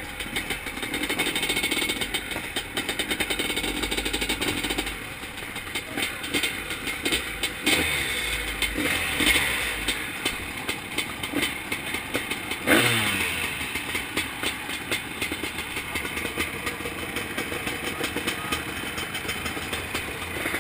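Zabel 700 two-stroke sidecar-cross engine running with uneven, rising and falling revs. A sharp knock about 13 seconds in is followed by the revs falling away.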